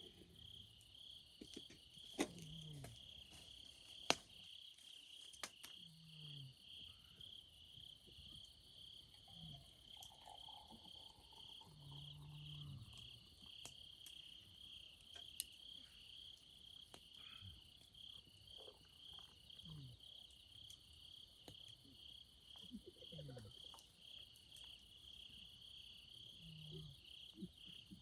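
Insects chirping in a faint, steady pulsing trill, with scattered sharp pops from a crackling wood campfire, the loudest about two and four seconds in.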